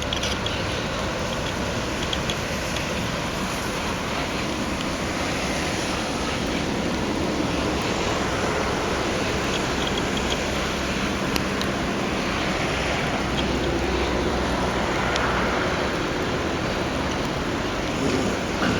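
Freight train running past, a steady, even noise of wheels on rails that holds throughout with no clear start or stop.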